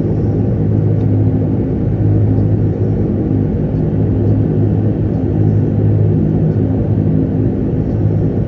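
De Havilland Canada Dash 8-300's twin turboprop engines running steadily, a low, even propeller drone.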